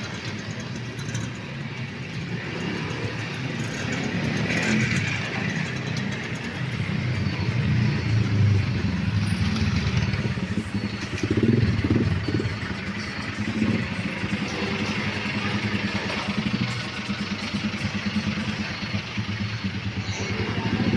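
A motor vehicle engine running steadily, its pitch rising and falling, with street noise around it.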